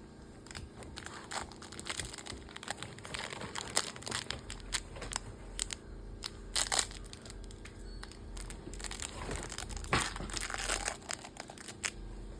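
Golden retriever chewing and tearing at a new toy elephant, with irregular crinkling and crunching that comes and goes.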